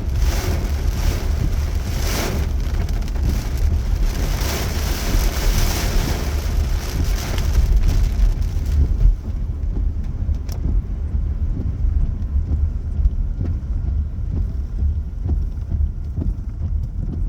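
Heavy rain hissing, with wind buffeting the microphone in a steady low rumble. About halfway through the rain hiss drops away, leaving mostly the wind rumble and a few scattered ticks.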